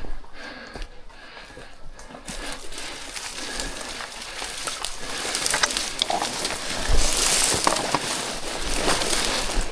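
Footsteps and rustling through dry grass and brush, with wind gusting on the microphone, loudest about seven seconds in.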